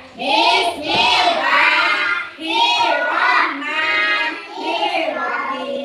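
Young children reciting a prayer together in a sing-song chant, in phrases of about a second with short breaks between them.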